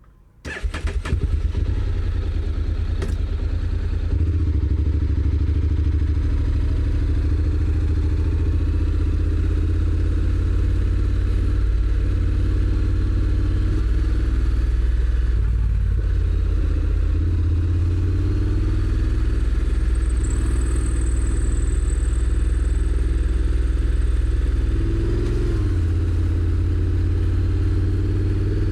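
Honda NC750X's parallel-twin engine starting up about half a second in, then running steadily at low revs with a deep rumble.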